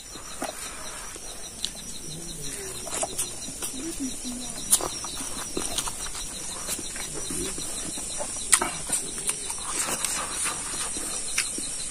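Close-up eating sounds: a man chewing and smacking his lips on mouthfuls of rice and pork trotter, with scattered short wet clicks throughout.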